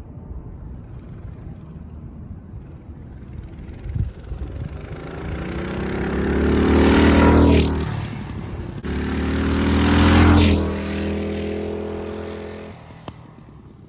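Small engine of a gas mini bike riding past twice, each time getting louder as it comes in and dropping in pitch as it goes by: once about halfway through and again about three seconds later, then fading away.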